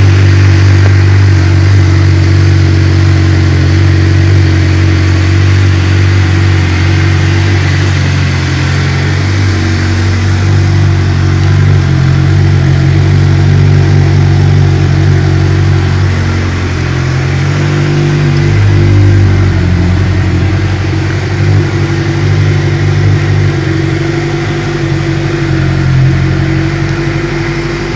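Suzuki GSX-R600 K8's inline-four engine running through a Mivv Suono titanium-carbon exhaust: a loud, fairly steady drone with small shifts in pitch and level.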